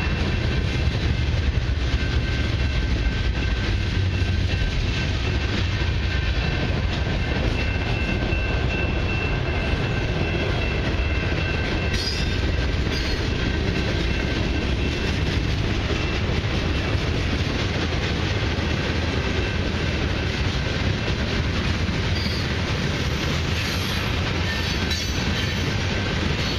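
Freight cars of a long mixed train (autoracks, a boxcar, tank cars) rolling steadily past at a level crossing. Their wheels run loudly and evenly on the rails.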